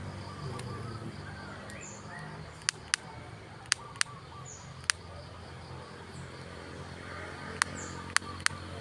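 Sharp, loud clicks, about eight of them, singly or in quick pairs, over faint, short, high falling chirps of small birds and a steady low hum.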